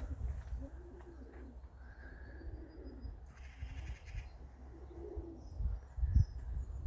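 Domestic pigeons cooing: soft low coos about a second in and again around five seconds, with a few low thumps near the end.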